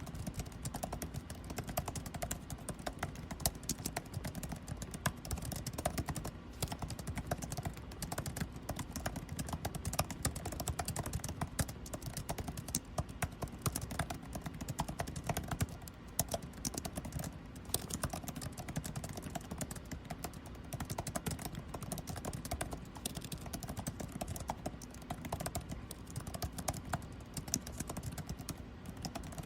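Continuous rapid typing on a computer keyboard, a dense, uneven patter of key clicks, over the steady low hum of air conditioning.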